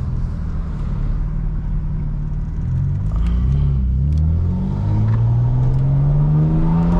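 Straight-piped BMW M4 Competition's twin-turbo inline-six pulling away. Its drone wavers up and down briefly about three seconds in, then the revs climb steadily through the rest.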